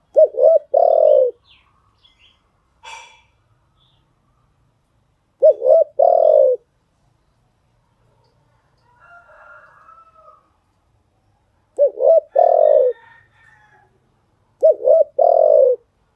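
Spotted dove cooing: four phrases, each two quick short coos followed by a longer drawn-out falling coo, with pauses of a few seconds between.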